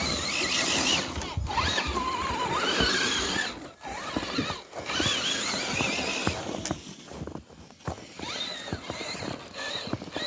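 Electric motors and gearboxes of RC crawler trucks whining, the pitch wavering up and down as the throttle is worked, with scattered clicks and crunches from the tyres on the ground. The whine drops out briefly about four seconds in and again near eight seconds.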